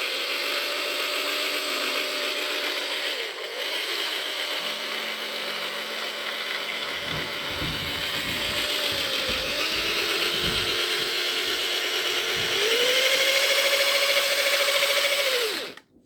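Electric drill spinning the input shaft of a rebuilt VAZ 2110 five-speed gearbox, a steady running whine whose speed dips twice, rises near the end, then stops suddenly. There is no knock, only a slight sound of the gears meshing, which the mechanic takes as the sign of a correctly assembled, quiet gearbox.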